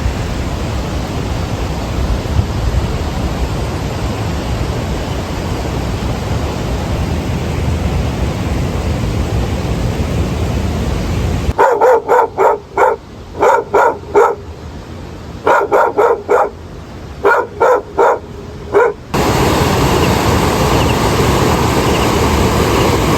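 A dog barking repeatedly, in quick runs of three or four short barks, for about seven seconds from halfway in. Steady wind-like noise on the microphone fills the time before and after the barking.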